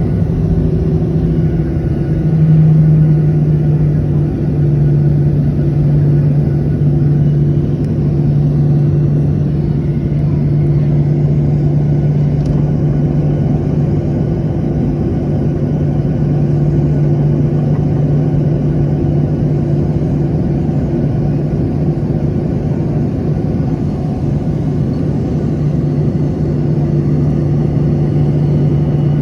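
Boeing 737-800's CFM56-7B jet engines running with a steady, loud hum over a broad rush of noise.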